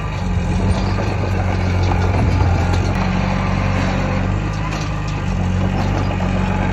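Heavy diesel engine of earthmoving machinery running steadily, a deep even hum with a little rise and fall in level.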